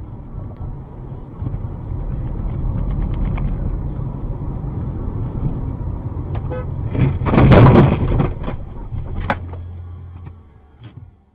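Steady vehicle engine and road rumble. About seven seconds in comes a loud noisy burst lasting about a second, then a single sharp knock, before the rumble fades away.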